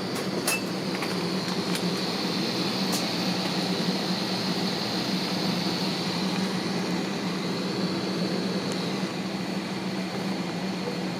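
Steady airliner cabin noise inside an Airbus A321: an even hum of the cabin air system with a hiss that fades about nine seconds in, and a few faint clicks in the first second.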